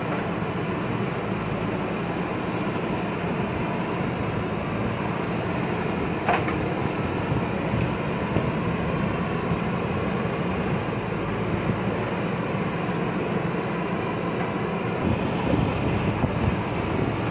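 JCB backhoe loader's diesel engine running steadily while working, with a short high squeak about six seconds in.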